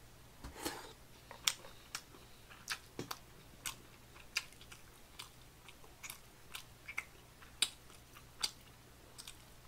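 A man chewing a mouthful of stir-fried rice cakes and ramen noodles close to the microphone: a string of short, wet mouth clicks and smacks, about one or two a second.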